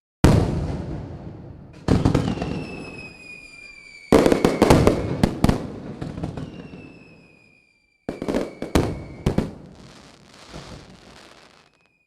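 Aerial fireworks going off: a series of sharp booms, each fading away, with rapid clusters of bangs and crackling a few seconds in and again near two-thirds through, and thin whistles that slide slightly downward in pitch between the bursts.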